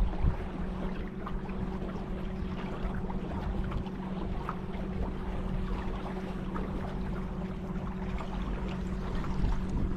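A boat's motor running at a steady speed, giving an even hum, with water and low wind rumble underneath.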